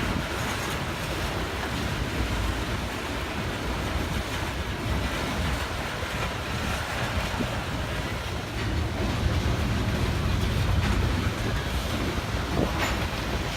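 Strong wind buffeting the microphone in a steady low rush, which grows louder about two thirds of the way in.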